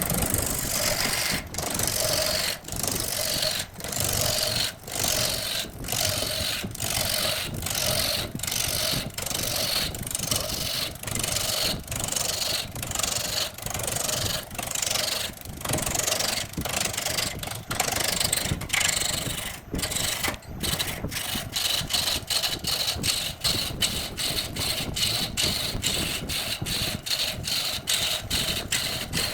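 Wood lathe with a tool cutting into the turning wood. The cutting noise pulses in an even rhythm, about two beats a second at first and about three a second from around two-thirds of the way in.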